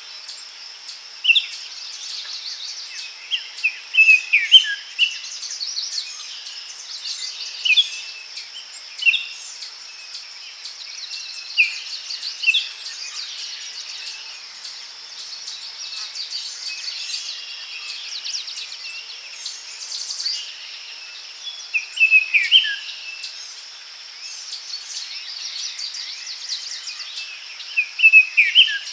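Daytime forest ambience: several songbirds calling and chirping in short bursts over a steady high insect drone.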